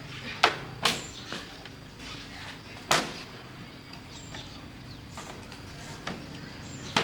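A few sharp knocks or clacks at uneven intervals, two close together near the start, one about three seconds in and one at the end, over a steady low background.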